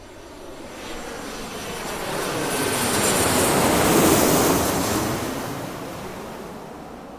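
Airplane passing overhead: a wide engine rush that builds to its loudest about four seconds in, then fades away.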